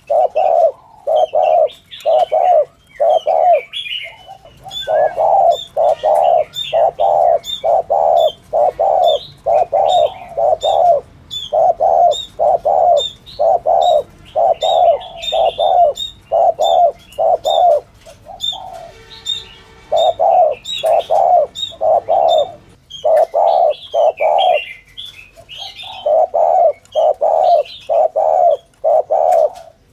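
Spotted dove cooing in a rapid run of short 'gù' notes, about two a second, broken by brief pauses. This is the urging coo ('thúc gù') used as a lure call by dove trappers. Smaller birds chirp higher up in the background.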